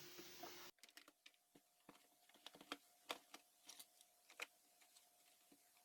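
Faint, irregular light clicks and taps from small parts of an unplugged heat gun being handled during repair, over a faint steady hum.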